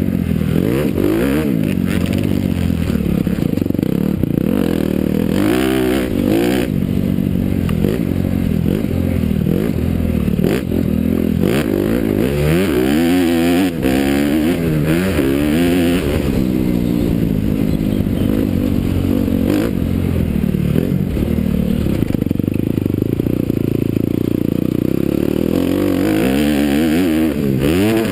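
Honda CRF250R's single-cylinder four-stroke engine being ridden, its pitch climbing and dropping over and over as the throttle is opened and closed.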